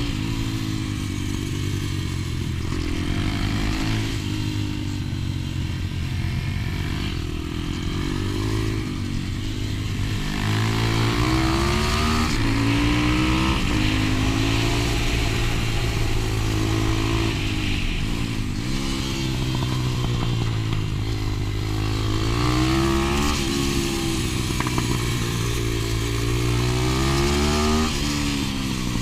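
125 cc pit bike engine being ridden hard, its pitch climbing as it revs up and dropping back every few seconds through the gears and corners.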